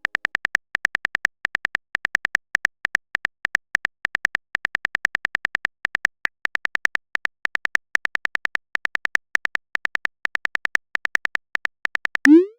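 Texting-app typing sound effect: rapid, even clicks, several a second, in bunches with short pauses, ending in a quick rising tone near the end, like a message being sent.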